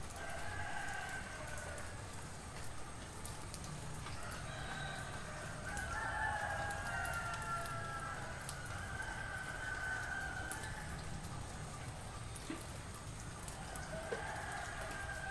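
Roosters crowing: a crow right at the start, a long run of crows in the middle where two birds overlap, and another crow near the end.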